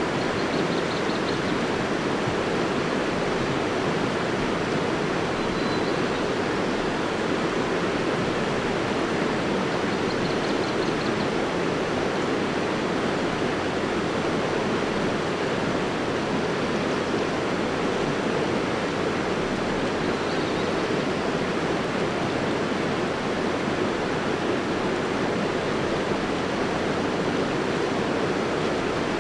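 Flowing water rushing steadily, as from a stream or small waterfall.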